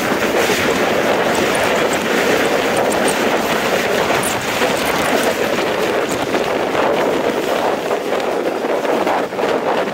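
Steady rush of a moving passenger train heard from its coach side, wind buffeting the microphone, as an opposing train passes close by on the adjacent track.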